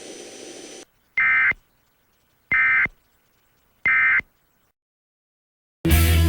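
Emergency Alert System end-of-message data tones: three short, identical buzzy digital bursts about a second apart. Near the end, a loud new sound with a low hum and hiss starts abruptly.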